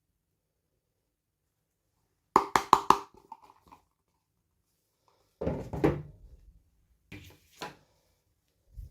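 Small plastic toy pieces and packaging handled: a quick run of four sharp clicks, then a rustling clatter a few seconds later, then a couple more clicks near the end.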